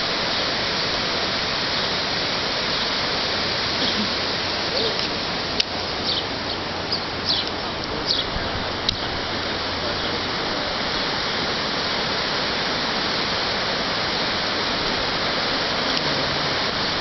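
Fast-flowing floodwater rushing, a steady loud roar of water. A few brief high-pitched chirps come through about midway.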